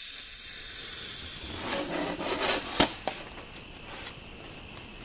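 Compressed air hissing out of a homemade PVC mini air cannon just after it fires, fading away over about two seconds. A few light clicks follow, with one sharper knock about three seconds in.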